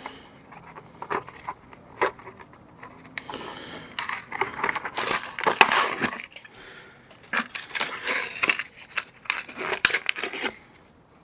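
Small metal door-hinge parts and tools being handled: scattered clicks and clinks, with two longer stretches of rustling and scraping.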